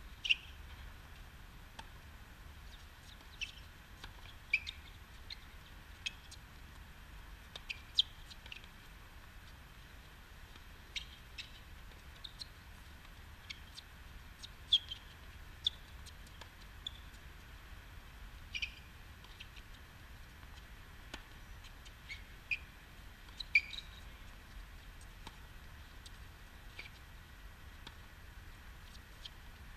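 Birds chirping: short, high chirps scattered irregularly, a few of them sharper and louder, over a faint low hum.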